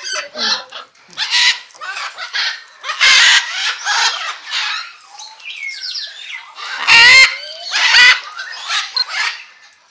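Several parrots squawking and calling: a run of loud, harsh squawks mixed with gliding whistled calls, loudest about three seconds and seven seconds in.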